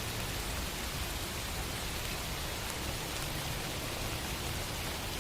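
Steady, even hiss-like background noise with a faint low hum beneath it.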